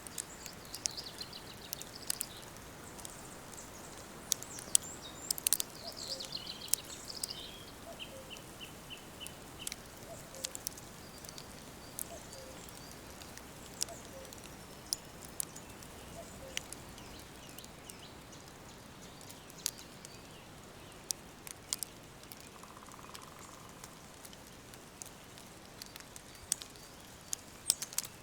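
Woodland ambience: several birds singing and calling, with a quick trill of evenly repeated notes about eight to ten seconds in, over a steady background hiss. Sharp clicks are dotted throughout.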